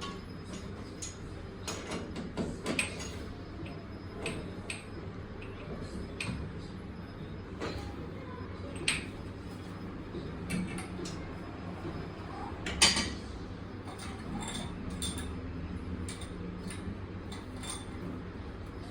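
Scattered clicks, taps and clinks of tools and fittings being handled while a water heater is installed, the loudest knock about 13 seconds in, over a steady low hum.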